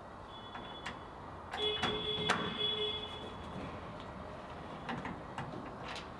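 Phillips screwdriver backing out tail-light mounting screws: scattered clicks and taps of the driver in the screw heads. A thin steady whine sounds for about a second and a half, about two seconds in.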